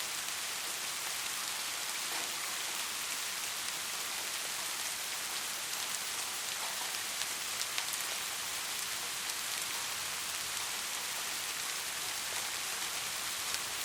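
Soft rain falling steadily: an even hiss with many small drop ticks scattered through it.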